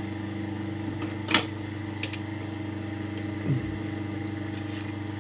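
South Bend lathe running with a steady motor hum. A sharp click about one and a half seconds in, the loudest sound here, with two lighter clicks just after it and a few faint ticks near the end, as of metal tools or parts being handled.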